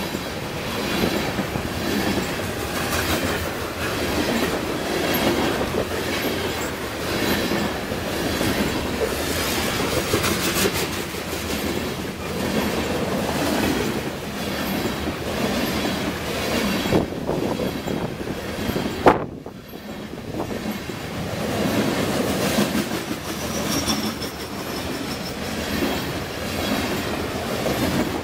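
Covered hopper cars of a Kansas City Southern grain train rolling past close by, steel wheels clicking over the rail joints over a continuous rumble. A single sharp knock comes about nineteen seconds in, and a faint high wheel squeal sounds near the end.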